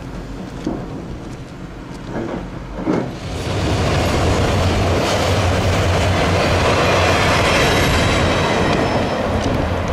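A train passing on the track, growing loud about three seconds in and staying loud, with a low steady hum under the rush of the wheels on the rails.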